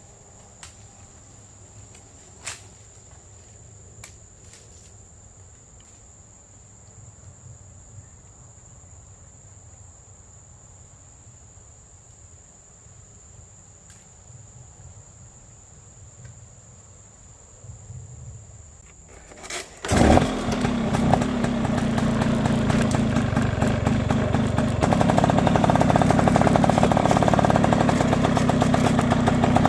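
A steady high insect buzz with a few sharp clicks, then about two-thirds of the way in a small petrol engine starts abruptly and runs steadily. It gets louder about five seconds later.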